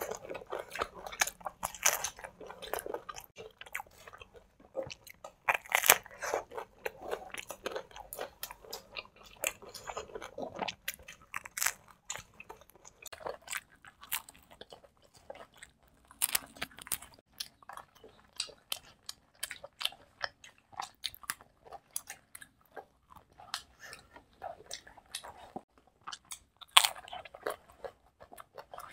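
Two people biting into and chewing slices of pizza: a run of irregular short chewing and biting clicks, with a few louder bites scattered through.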